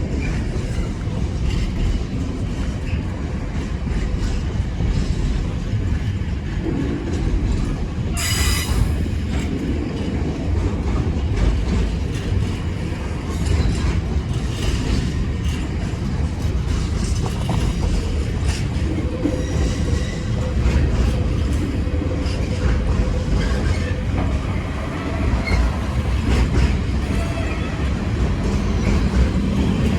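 Train running through the station, a steady low rumble with wheels clattering over the rail joints. About eight seconds in there is a brief high-pitched wheel squeal.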